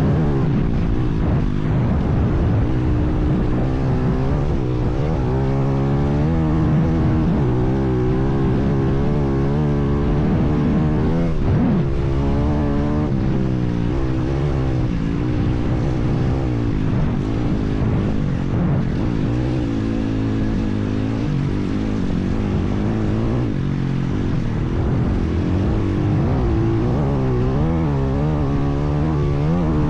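IMR 160cc pit bike's single-cylinder four-stroke engine running, its pitch rising and falling repeatedly as it is revved and ridden.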